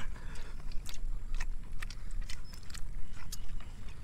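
A person chewing a mouthful of chicken curry and rice, with irregular small mouth clicks and smacks.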